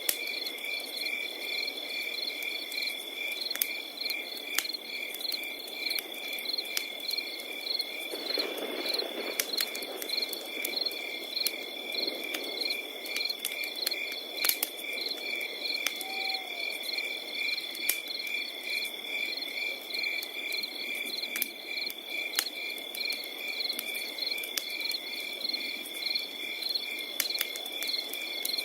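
Crickets chirping in rhythmic pulses over a steady high trill, with a crackling wood fire popping irregularly throughout.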